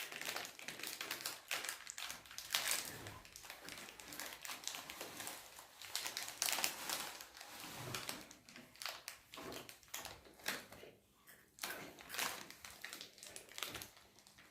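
Sweet wrappers crinkling: a busy, irregular run of crackles and taps.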